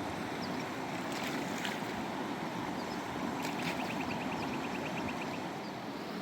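River water rushing steadily over a rocky bed. About halfway through, a small bird gives a short, rapid trill of high ticks lasting about two seconds, with a few faint high chirps around it.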